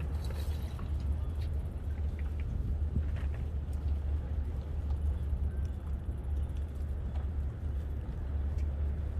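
Steady low rumble of wind buffeting the microphone while riding a bicycle, with a few faint ticks.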